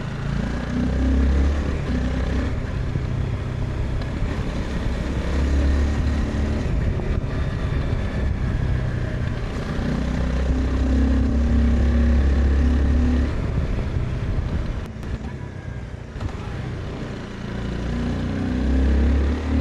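Honda CBR 250R's single-cylinder engine running under throttle as the bike is ridden. It eases off about fourteen seconds in and picks up again near the end.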